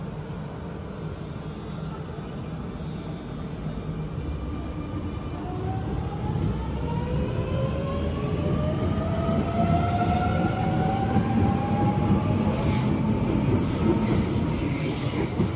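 Sydney electric suburban train moving through the station, its traction motors giving a rising whine as it gathers speed and its sound growing louder. A run of sharp clicks from the wheels on the rails follows near the end.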